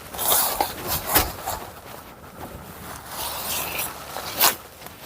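Cassava plants being pulled up by hand: leaves and stalks rustle and soil scrapes and tears, with a few sharp knocks, one about a second in and one near the end.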